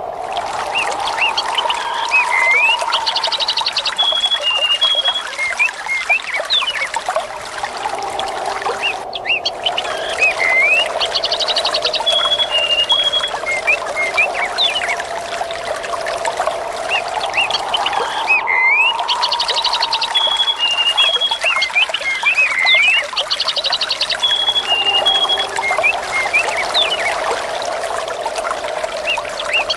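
Nature ambience of trickling, flowing water with birds chirping and a slow rising and falling whistle of wind. The same stretch repeats about every nine seconds, with a brief break at each seam.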